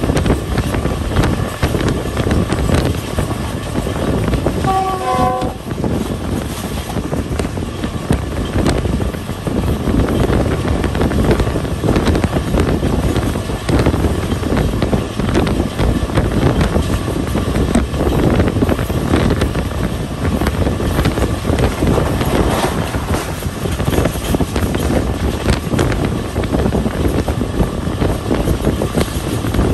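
Passenger train running along the track, a steady rumble and rush of noise. About five seconds in comes a short horn blast of about a second.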